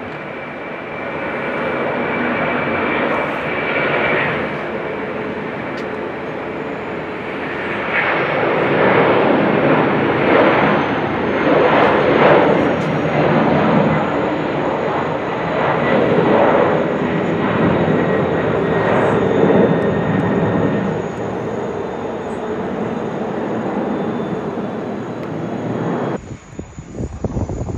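Widebody twin-engine jet airliner's engines at takeoff power: the noise builds, peaks and eases off as the jet passes, with a thin high whine rising in pitch. The sound cuts off suddenly near the end.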